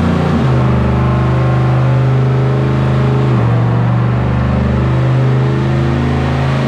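Turbocharged LS V8 engine running at a steady, loud note that steps down slightly in pitch about three and a half seconds in.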